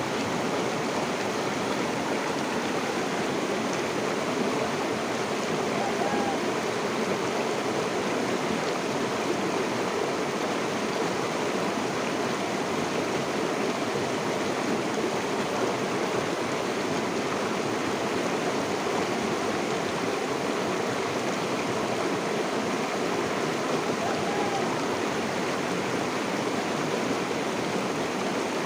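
River water flowing and rushing, a steady even rushing sound.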